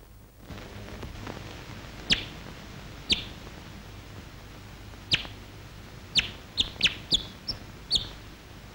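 Short, sharp, high chirps, each dropping quickly in pitch, from a small bird. They come singly a second or more apart, then quicken into a run of several near the end, over a faint steady hum.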